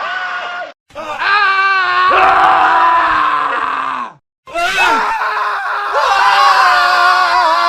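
Men screaming, separate screams edited back to back, with two short silences about a second in and just after four seconds. One scream, about a second and a half in, wavers in pitch.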